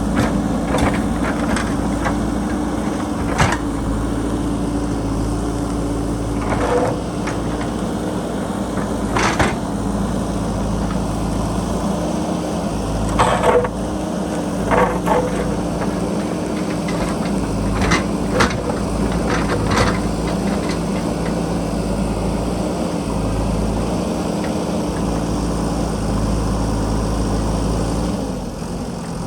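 JCB backhoe loader's diesel engine running steadily under load while digging, with a scattering of sharp knocks and clanks as the bucket strikes rock and earth.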